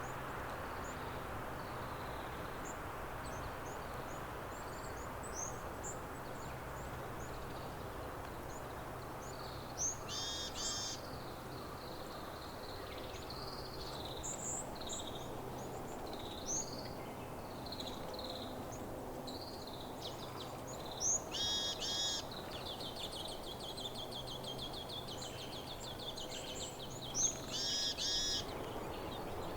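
Small wild songbirds calling: scattered short chirps throughout, three louder bursts of quick repeated notes, and a fast trill in the second half, over steady background noise.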